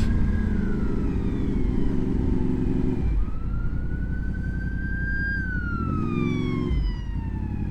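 An ambulance siren wailing in slow sweeps, rising for a couple of seconds and then falling, over the steady running of a Honda VFR motorcycle's V4 engine.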